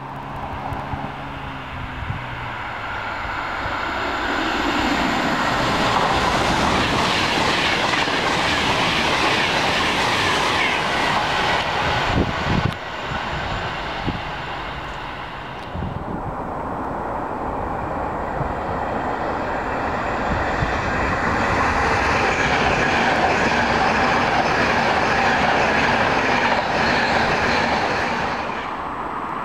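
Express passenger trains passing at speed: steady noise of wheels on rail and rushing air, building up over the first few seconds. Partway through, the sound changes abruptly as the clip switches to another passing train.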